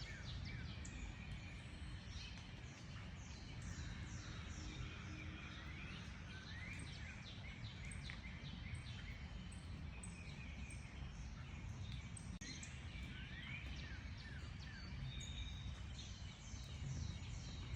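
Several small birds chirping and calling over one another in short, quick notes, some sweeping up in pitch, over a steady low background rumble.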